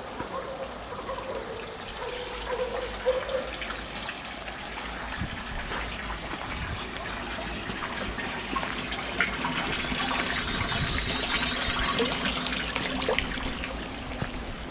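Rainwater running and trickling, with small splashes, growing louder through the second half.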